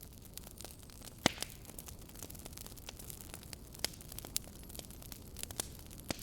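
Wood fire burning in a fireplace, crackling and popping irregularly over a low steady hiss, with a sharp pop about a second in and others near four seconds and just before the end.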